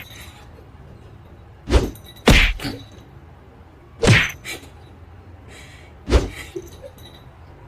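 Four short, dull thumps at uneven intervals, with a quiet background between them.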